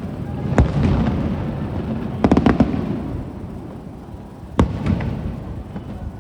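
Aerial fireworks shells bursting. A single sharp bang comes about half a second in, a quick cluster of four or five bangs follows at about two and a half seconds, and another single sharp bang comes later, with rumbling echoes between them that die away.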